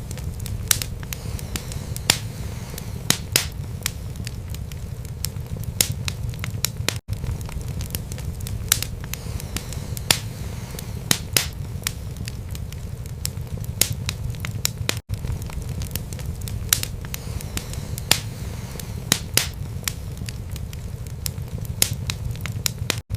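Wood fire burning in a fireplace: a steady low rumble of flames with frequent sharp crackles and pops, several a second. The sound drops out for an instant about every eight seconds.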